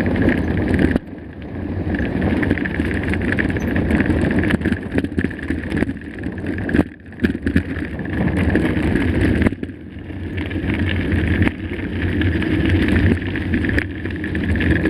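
Mountain bike riding over a rough dirt trail: steady tyre rumble and rattle, with brief dips in level about a second in, near the middle and about ten seconds in.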